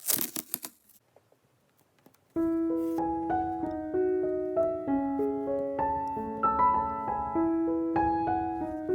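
A quick run of sharp clicks in the first second. Then gentle solo piano music begins abruptly a little over two seconds in and plays on steadily.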